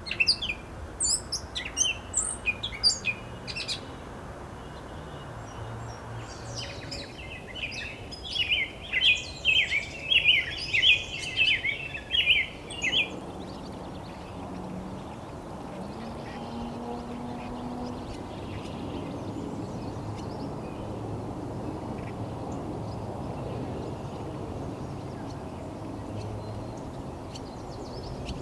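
Wild songbirds calling outdoors: a few sharp high chirps at the start, then a loud, rapid run of song notes from about six to thirteen seconds in. After that only steady low outdoor background noise remains.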